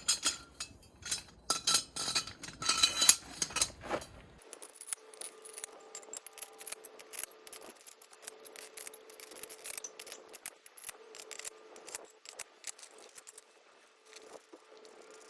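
Sharp clinks and knocks of hard objects for about four seconds, then an abrupt change to a quieter run of scattered small clicks over a faint steady hum.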